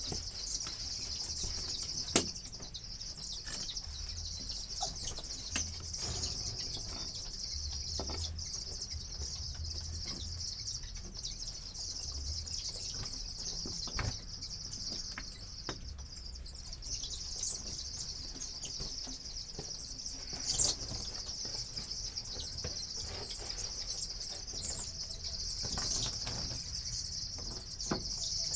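A flock of broiler chickens peeping in a steady, high chorus, with wing flapping and occasional sharp knocks and scuffs among them, loudest about two seconds in and near twenty seconds in.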